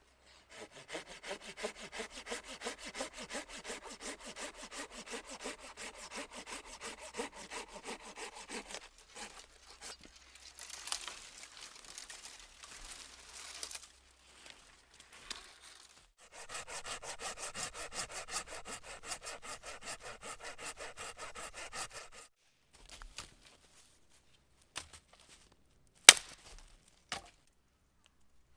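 Hand saw cutting through wood in steady back-and-forth strokes, in two long bouts with a pause between, then a few knocks and one sharp crack of wood near the end.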